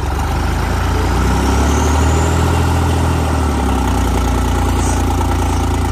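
Diesel tractor engine running close by. It revs up about a second in and eases back down near the middle.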